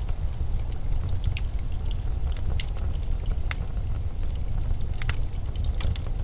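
Steady low rumble of blizzard wind, with scattered faint high clicks and crackles through it.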